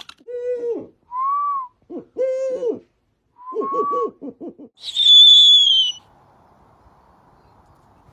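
Pet owl hooting: a string of short pitched hoots, some low and some higher, then about five seconds in a loud, high whistle that falls slightly in pitch for about a second.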